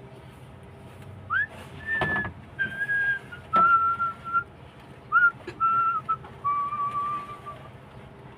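A person whistling a short tune of held notes that step down in pitch, with a few light metallic clicks of tools in between.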